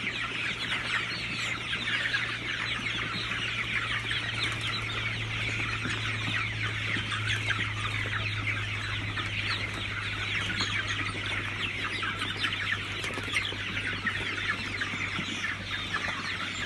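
A large flock of chickens in a poultry house, many short calls overlapping in a continuous din, over a steady low hum.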